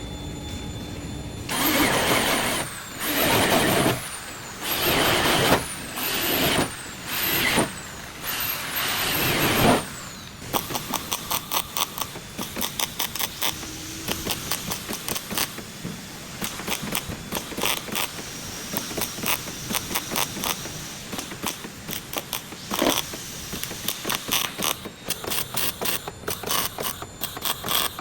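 Power tools in a body shop: one runs in about six short bursts of a second or so, then a long run of rapid ratcheting clicks follows.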